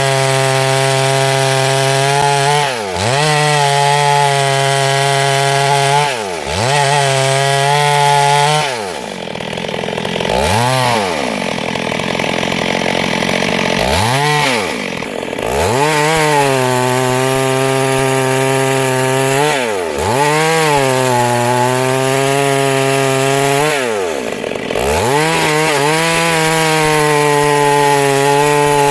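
Two-stroke chainsaw running at high revs while cutting wood lengthwise into planks. About six times the throttle is briefly let off, and the engine note drops and climbs back up.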